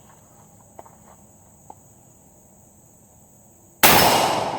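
Crickets chirring steadily, then a single loud Arisaka rifle shot near the end, its report trailing off slowly.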